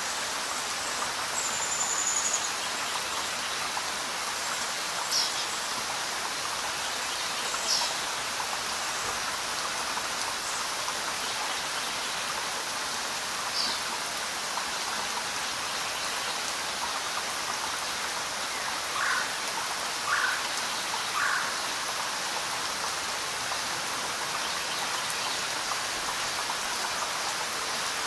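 Steady rain falling, an even hiss throughout. A few short, high bird chirps stand out over it, and three lower chirps come in quick succession about two-thirds of the way through.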